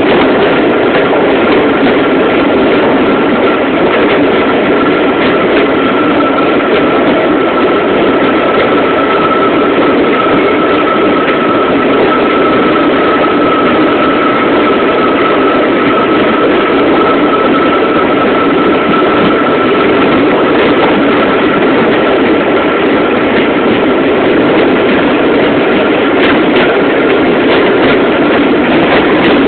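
Train running through a long railway tunnel: a loud, steady rumble of wheels and running gear, with a thin steady whine held over it.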